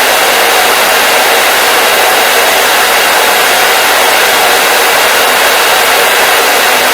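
Hair dryer running steadily: a loud, constant rushing hiss that never changes, with almost no low hum.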